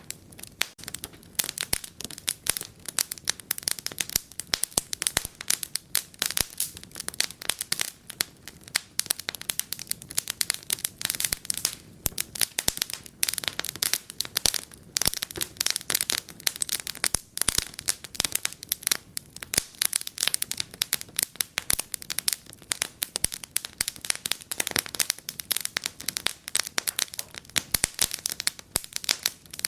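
Wood fire crackling, with a dense run of small irregular pops and snaps over a soft steady hiss.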